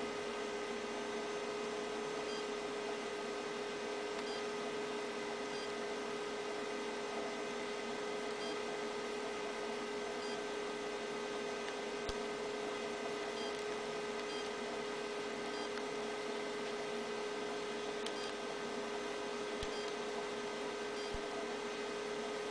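Steady electrical hum and hiss with one strong tone and several fainter ones, unchanging throughout, and faint high ticks about every one and a half seconds.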